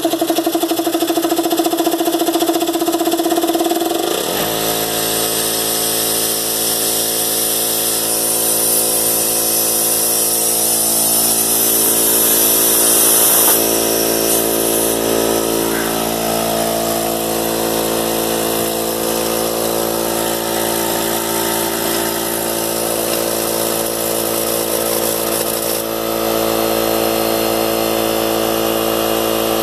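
DeWalt D51553 air compressor running from a cold start, its motor and pump filling the tank. The tone changes about four seconds in, then the compressor runs steadily.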